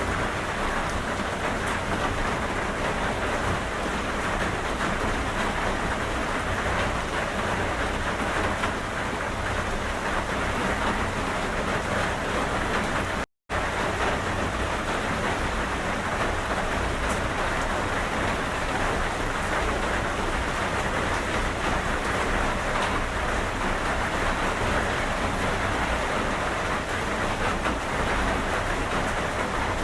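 Steady, heavy rain falling, an even hiss with no distinct drops or rumbles standing out. About halfway through it cuts out for a split second and comes straight back.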